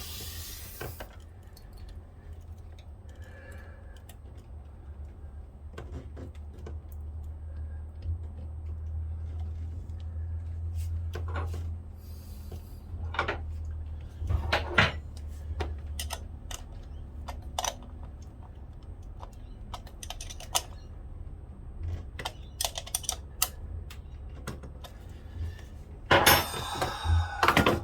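Hand tools clicking and clinking on metal while the new starter motor is bolted up and connected on the marine diesel: scattered light ticks and knocks, with a denser clatter near the end, over a steady low hum.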